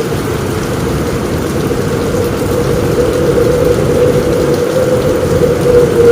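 Heavy rain on a roof, a steady dense wash that sits mostly low in pitch and does not let up.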